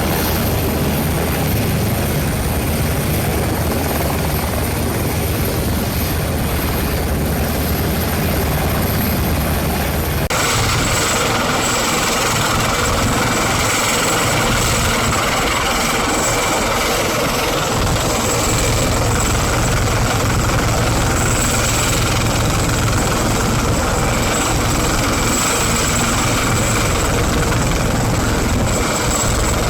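Helicopter rotors and turbine running close by, a steady loud drone with heavy low rumble, mixed with strong wind on the microphone. The sound changes abruptly about ten seconds in, then runs steadily again.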